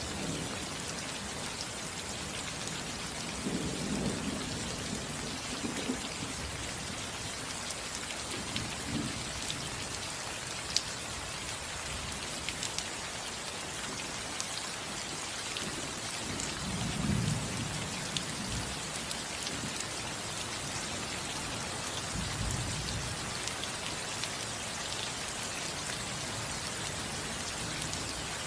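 Steady rain falling on a house roof, with sharp drop ticks scattered through it and several low rolls of thunder, the loudest about two-thirds of the way through.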